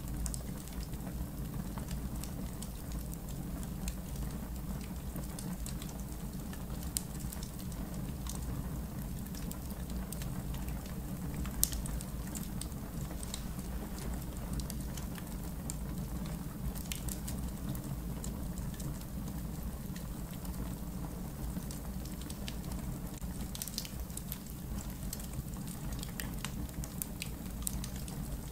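Campfire crackling in a fire pit: scattered sharp pops and snaps, one louder pop about twelve seconds in, over a steady low rumble.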